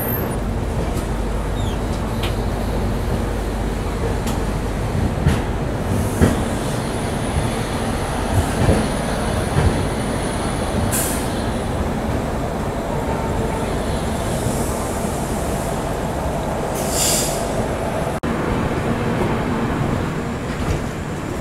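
Running noise of an Indian Railways LHB passenger coach on the move, a steady rumble with a few sharp knocks from the wheels over the track. Two brief high hisses come partway through and later on.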